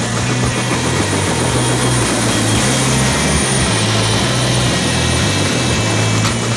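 Steady whirring rotor noise of a helicopter, with a low hum that shifts in pitch every so often.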